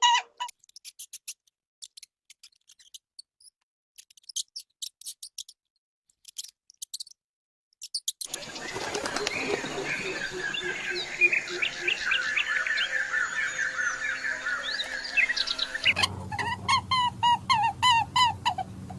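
Birds chirping: quick high chirps in short groups, then, about eight seconds in, many birds chirping and singing together over a steady hiss. Near the end, an animal gives a repeated pitched yelping call.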